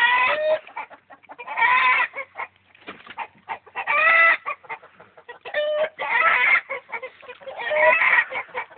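A rooster giving about six loud, harsh calls, each under a second long and a second or two apart, their pitch gliding and dropping at the end of each call.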